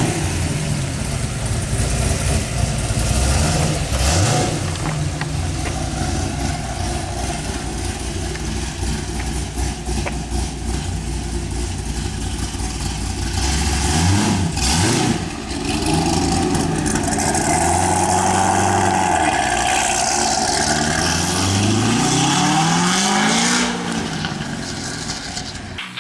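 Chevrolet Corvette C6 Z06's LS7 7.0-litre V8 running through an aftermarket exhaust, idling and being revved. There is a quick blip up and back down about halfway through, and a climbing rev near the end, before the sound cuts off.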